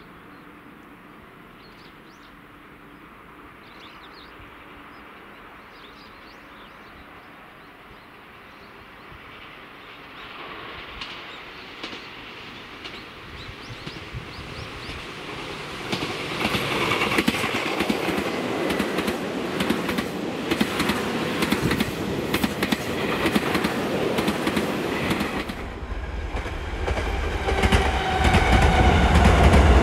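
Tobu Railway 30000 series electric train approaching and passing: it swells from about ten seconds in, then runs loudly with a rapid clatter of wheels over rail joints. Near the end this cuts off suddenly, and a Tokyo Metro 10000 series train takes over with a deep rumble and a falling motor whine.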